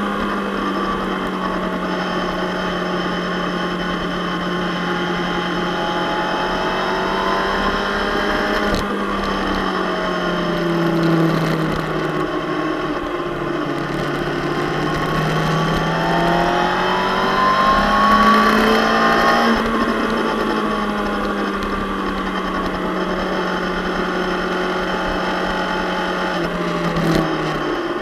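Suzuki GSX-R600 K7's inline-four engine running hard on track, heard from the bike itself over wind rush. Its pitch sags, climbs to a peak about two-thirds of the way through, then drops back.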